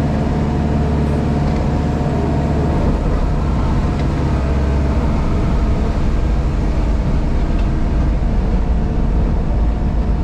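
JCB Pothole Pro's diesel engine running steadily, a constant low hum with several held tones, heard from inside the machine's cab.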